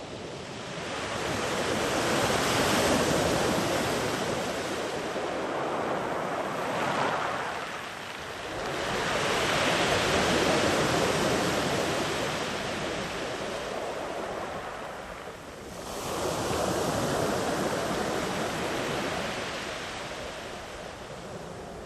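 Sea waves breaking and washing up the shore in three surges, each swelling and then fading over several seconds.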